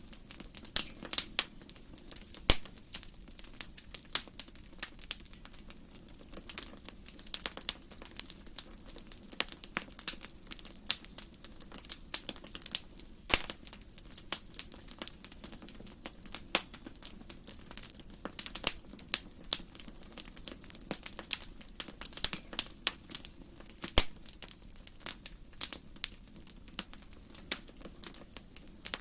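Wood fire burning in a fireplace: irregular sharp crackles and pops over a soft steady hiss, with several louder pops.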